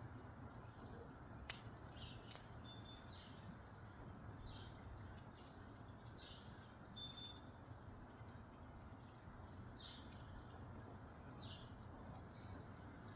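A bird calling faintly with short, high, falling chirps, repeated every second or so, with two sharp clicks a couple of seconds in.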